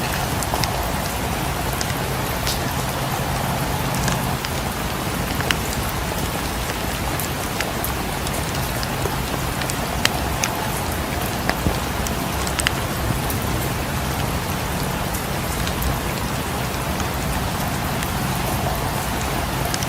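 Steady rain falling as an even wash of noise, with scattered sharp crackles and pops from a wood fire now and then.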